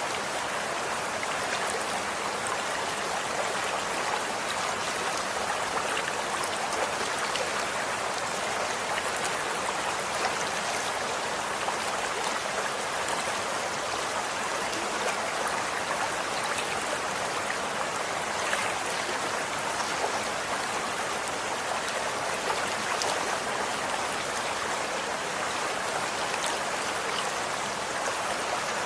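Running water flowing steadily: an even, unbroken rush with fine splashing flicks.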